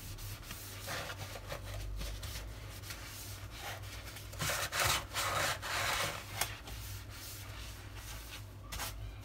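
Wet sponge scrubbing the filter well and stainless-steel base of a dishwasher tub, in irregular rubbing strokes, louder in the middle, scouring off built-up residue.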